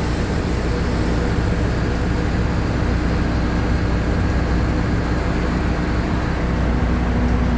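Mercedes-Benz OF-1519 BlueTec 5 bus's diesel engine running steadily while the bus is under way: a low drone with road noise, its pitch shifting slightly.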